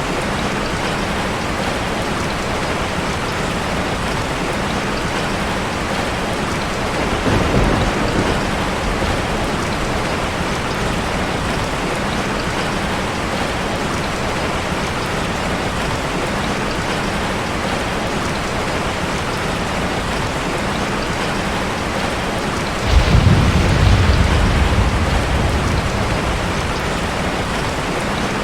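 Steady rushing water ambience, an even hiss of falling water. A low rumble swells briefly about a quarter of the way in. A louder, deeper rumble breaks in suddenly near the end and slowly fades.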